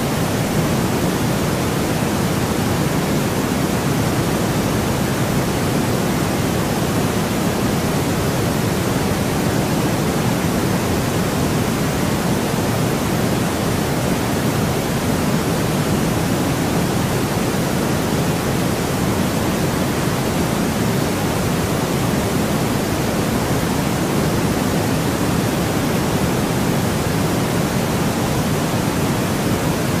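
Steady, unchanging white noise: an even, deep rush, fuller in the low end than a thin hiss.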